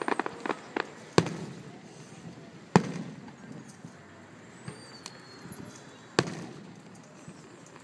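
Aerial firework shells bursting. A quick patter of crackles opens, then three loud booms come about a second in, near three seconds and just after six seconds, each trailing off in a rolling echo.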